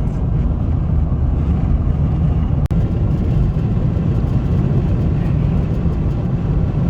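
Steady road and engine noise inside a car cruising on the highway: a low, even rumble, with a split-second dropout a little under three seconds in.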